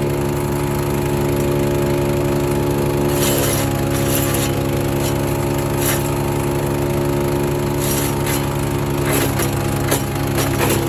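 Garden wood shredder running at a steady pitch while branches are fed in, with sharp cracks of wood splintering in its cutters several times from about three seconds in.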